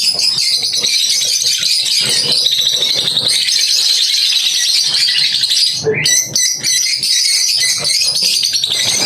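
A flock of budgerigars chattering, a dense continuous high twittering of many birds at once, with a brief lull about six seconds in.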